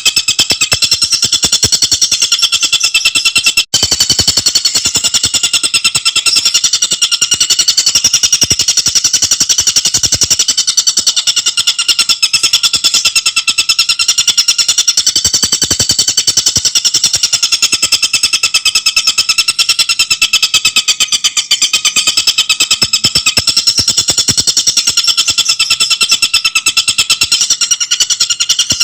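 Tengkek buto bird singing a continuous, very rapid rattling trill of tightly packed notes. The pitch wavers gently, and there is a brief break a few seconds in.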